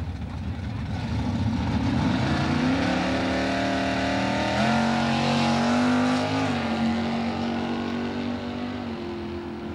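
A drag-racing GM muscle car's engine revving at the starting line, its pitch climbing steeply, then launching and pulling away down the strip. The pitch drops once about six and a half seconds in.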